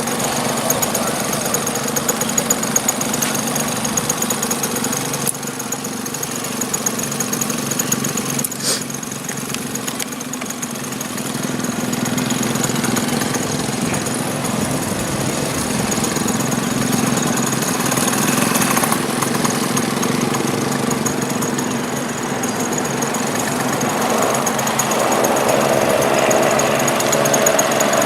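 Small model-aircraft engine running steadily, its pitch lifting and growing louder in the last few seconds.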